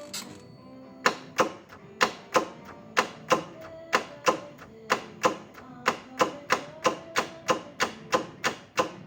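Alfa Romeo 147 Selespeed gearbox actuator clicking sharply in a regular rhythm, in pairs about once a second and then about three times a second from around six seconds in, over a faint steady hum. It is the Selespeed's abnormal noise, linked to a faulty clutch that called for a calibration.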